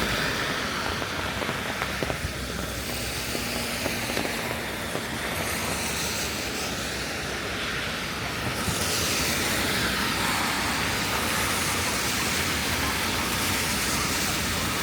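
Rainy city street ambience: a steady hiss of rain and traffic on wet road, swelling about nine seconds in as a vehicle passes.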